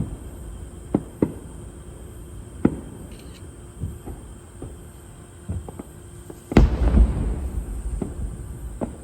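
Aerial fireworks bursting overhead: a run of scattered sharp bangs, with one much bigger boom and a low rumble about six and a half seconds in.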